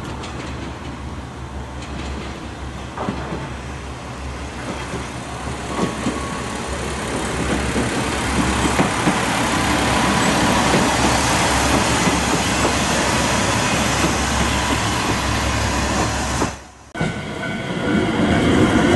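Red JR local train running through a station, its rumble and wheel noise growing louder as it passes. Near the end, after a sudden break, a JR West 227 series 'Red Wing' electric train rolls through a level crossing with steady alarm tones sounding.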